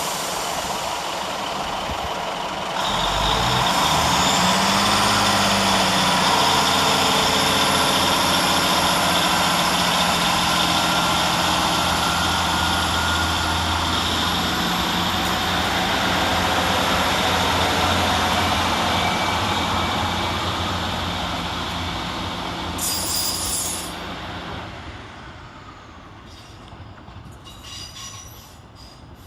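Class 153 diesel multiple units pulling out and accelerating, their diesel engines under power with a high whine rising about four seconds in. There is a brief hiss near the end as the noise fades away into the distance.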